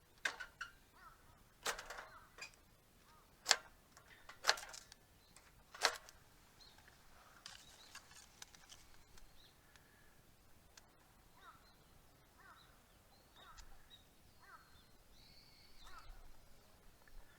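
Five sharp cracks or knocks in the first six seconds, then faint short bird calls repeating near the end.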